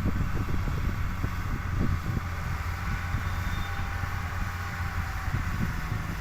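Tata truck's diesel engine running steadily with a low rumble, with wind buffeting the microphone.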